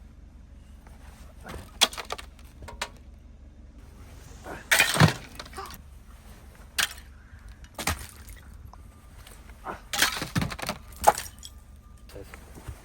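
Icicles being knocked down, cracking and shattering in a series of separate crashes, the loudest about five seconds in and again around ten to eleven seconds.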